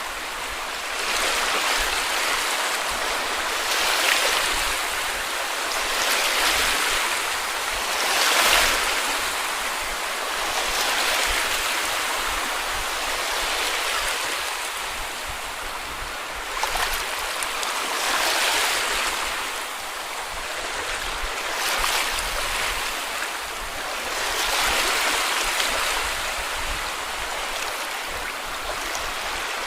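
Small sea waves washing onto a beach, each breaking and running up the sand in a swell of rushing water every two to three seconds.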